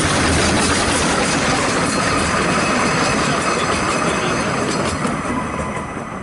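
Narrow-gauge steam locomotive Brown Bear and its train of open coaches running past close by, with wheel and running noise from the loco and coaches. The sound fades near the end as the last coach passes, with a few clicks of wheels over the rail joints.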